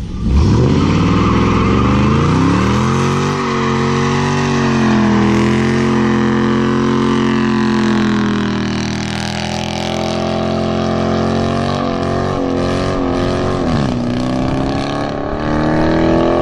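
Dodge Charger Daytona V8 exhaust, with its mid-muffler deleted, catching on a cold start and flaring up over the first few seconds, then running at a fast idle whose pitch wavers, sags a couple of times and climbs again near the end.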